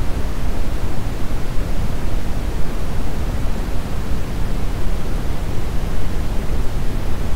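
Steady brown noise: an even, unchanging rumbling hiss, strongest in the bass and fading toward the treble.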